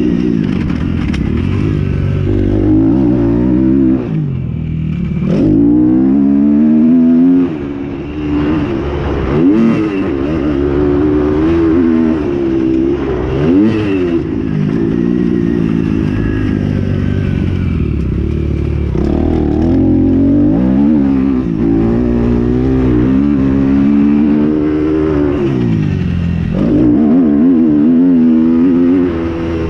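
Motocross bikes racing, their engines revving up and down again and again through throttle and gear changes. Several bikes run at once, each passing and fading.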